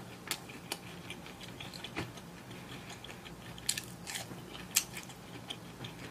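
A person chewing a fried snack close to the microphone, with sharp crisp clicks and wet mouth smacks scattered through, the loudest about four and five seconds in.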